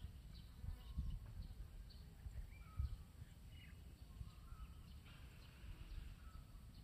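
Faint bird chirps, short high notes coming every second or so, over a low rumble on the microphone with a couple of brief thumps.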